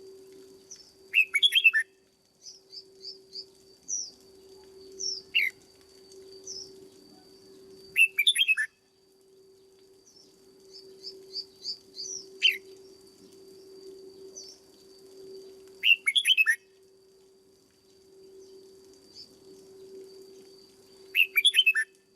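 Red-whiskered bulbul singing: short, loud warbled phrases repeated every few seconds, six in all, with softer chirps between them. A steady low hum runs underneath.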